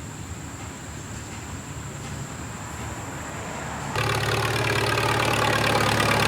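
An engine running steadily at low level. About four seconds in it gives way abruptly to a louder engine running steadily with a dense, buzzy tone.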